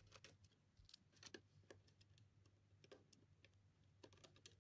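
Very faint, irregular small clicks and ticks of screws being driven by hand into a hard drive's mounting tray, with a low steady hum underneath.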